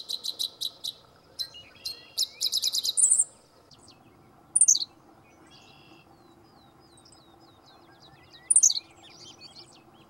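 Songbirds singing and calling in grassland: a quick run of high chips at the start, a short trill about two to three seconds in, and short loud high notes twice more, about halfway and near the end.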